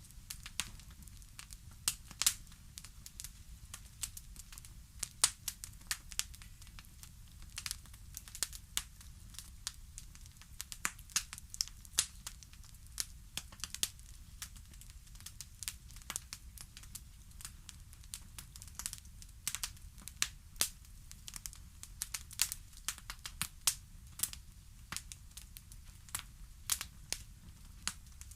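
Fire crackling: irregular sharp pops and snaps, several a second at times, over a steady low rumble.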